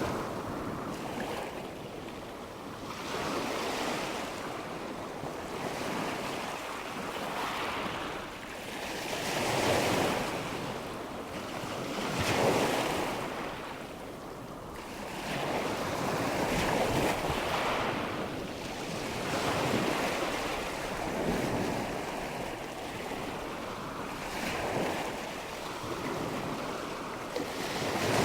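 Waves washing in, in steady swells that rise and fall every two to three seconds.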